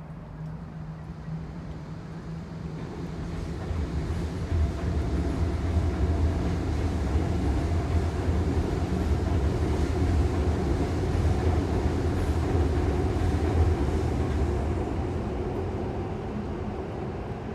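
Subway train passing over the river: a deep rumble that builds over about four seconds, holds with a faint steady tone over it, then fades near the end.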